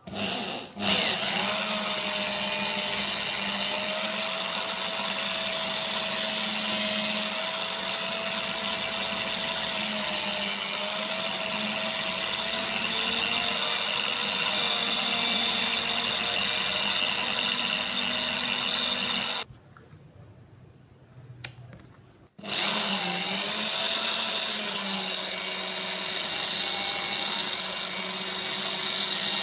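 Small electric power tool motor running steadily with a whine. It stops about two-thirds of the way in and starts again a few seconds later.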